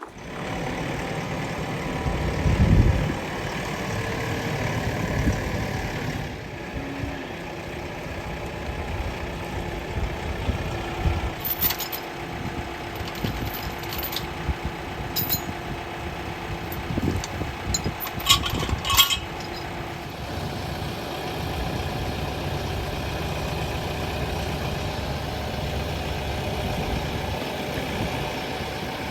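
Farm tractor engine running steadily, with a few sharp metallic clinks and clanks partway through.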